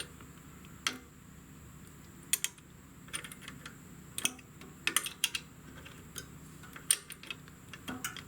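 Light metallic clicks and ticks at irregular intervals, about a dozen, as a tool works the threaded brake pedal adjuster rod to shorten it.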